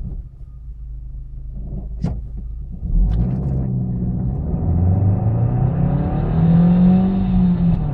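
Opel Astra 1.6 Twinport four-cylinder engine idling, with a sharp click about two seconds in. From about three seconds in it pulls away under full throttle, its note rising steadily, then drops near the end as the Easytronic automated gearbox changes up.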